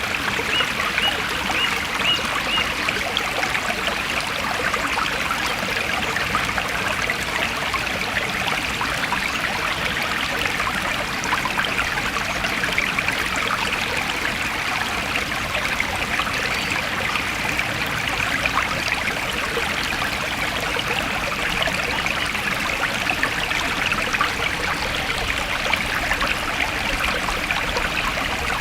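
Forest stream flowing steadily, a constant splashing trickle of running water.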